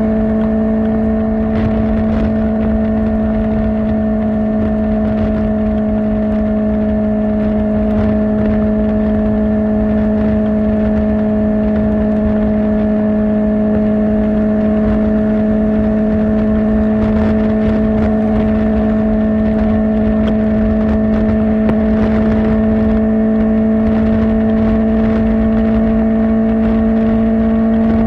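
Kawasaki Ninja ZX-4R's inline-four engine through an Akrapovic exhaust, running at a steady cruising speed with an even, constant-pitched note that creeps slightly higher towards the end, over a low rush of wind.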